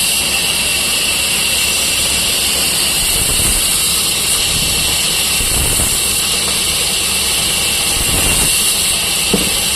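A machine running steadily, a constant loud hiss over a low rumble, with a small click near the end.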